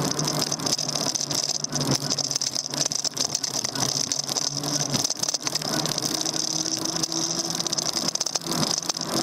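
Daymak Max e-bike on the move, heard from its handlebar: a steady high whine over constant small rattles and knocks from the bike as it rolls.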